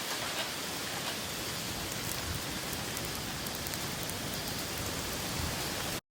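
Steady rain falling, an even hiss with a few faint drop ticks, cutting off suddenly near the end.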